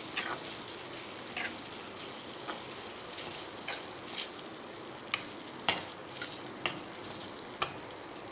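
Boneless chicken frying in a pan with ground pepper masala, a steady sizzle, while it is stirred, with sharp ticks every second or so.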